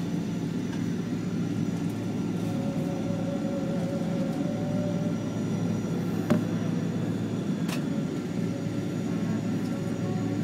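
Boeing 777 cabin noise while taxiing after landing: a steady low hum of the idling jet engines and cabin air system. Two faint clicks come in the second half.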